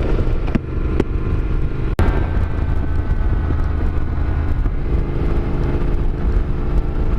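Yamaha Ténéré 700's parallel-twin engine running under way, mixed with wind noise on the microphone. A few short sharp clicks come in the first two seconds, and the engine's tone sinks under the wind for a few seconds in the middle before it returns.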